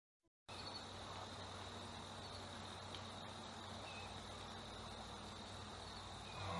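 Faint, steady outdoor ambience with a continuous high insect chirring. It starts abruptly about half a second in, after dead silence, over a low steady hum.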